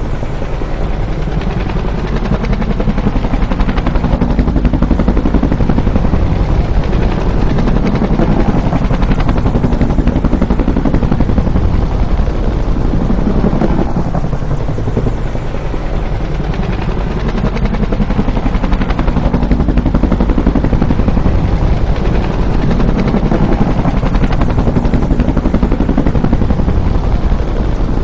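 Bell UH-1 "Huey" helicopter, its rotor beating in rapid, even blade thumps with engine and turbine noise under them. The sound swells and fades as it passes, twice, about fourteen seconds apart.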